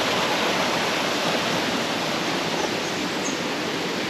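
Waterfall, water rushing steadily.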